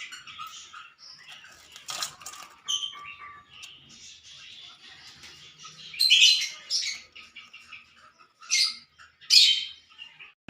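Lovebirds chattering in high chirps, with loud harsh squawks about six seconds in and twice near the end. A sharp click about two seconds in.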